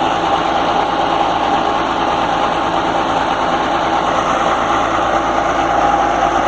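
Atlas Copco XA420 portable diesel air compressor running steadily.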